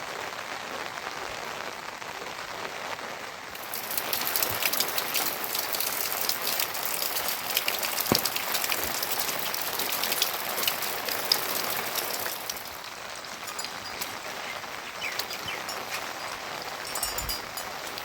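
Rain falling steadily, with many fine drop impacts; it grows heavier about three and a half seconds in and eases again at about thirteen seconds.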